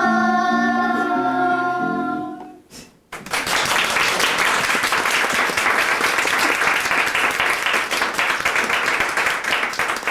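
A children's choir holds the final note of a song for about two and a half seconds. After a brief pause, an audience applauds steadily for about seven seconds.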